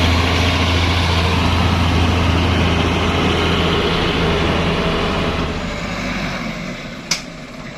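A truck engine runs with a steady low drone, then fades away after about five seconds. A single sharp click sounds near the end.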